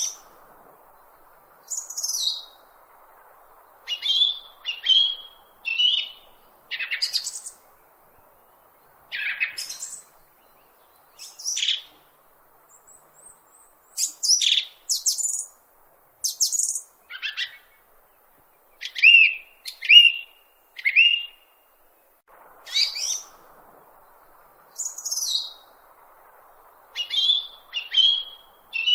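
Bird chirping: short, separate high calls, about one a second with brief pauses, many of them sweeping down in pitch.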